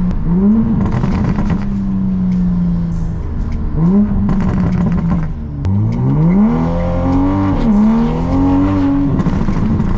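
Toyota Supra MK5 engine at full-throttle acceleration, its pitch climbing several times over with a drop between climbs as it revs out and shifts, while the tyres spin: cold tyres losing grip.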